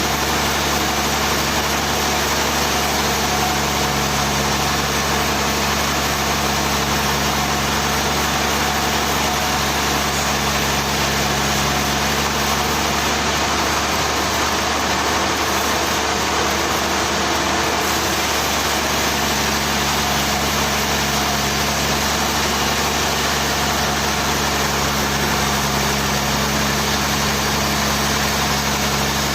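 Sawmill machinery running steadily: a constant engine-like hum with a steady hiss above it, its low tones shifting briefly about halfway through.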